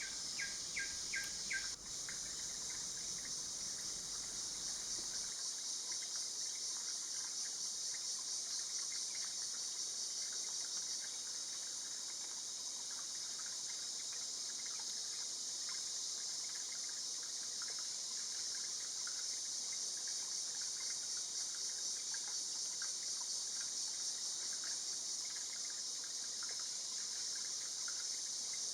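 Steady high-pitched drone of tropical forest insects, with short faint chirping notes scattered throughout.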